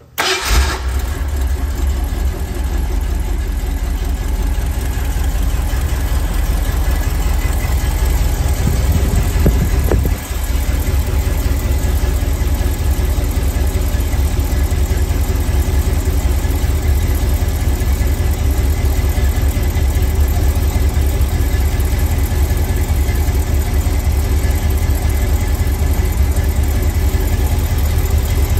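Carbureted Ford V8 of a classic Ford Bronco starting cold: it fires right at the start and settles straight into a steady, deep idle, with a short dip in level about ten seconds in.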